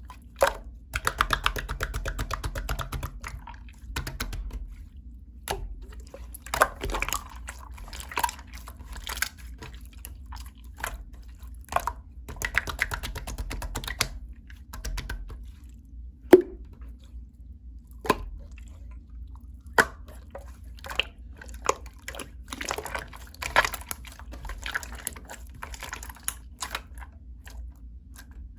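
Clear slime being handled by hand: wet clicks, pops and crackles come in irregular clusters with short pauses between them, and one sharper pop about halfway through.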